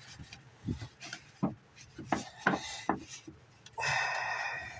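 Handling noises from an air filter being looked over and moved about: several sharp knocks and taps, then about a second of rubbing or scraping near the end.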